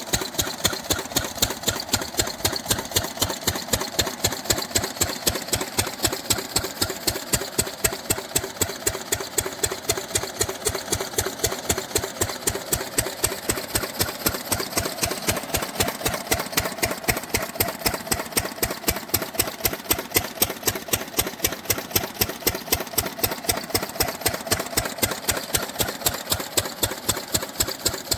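Diesel engine driving an irrigation water pump, running steadily with an even, rapid knocking beat, several strokes a second.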